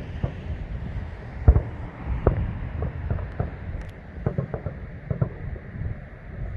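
Distant fireworks bursting: a run of booms and cracks in quick succession over a low rumble, the loudest about a second and a half in, with wind noise on the microphone.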